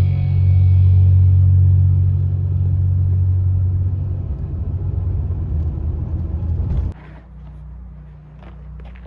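Car driving, a loud steady low rumble; about seven seconds in it cuts off abruptly, leaving a quiet background with a few light clicks.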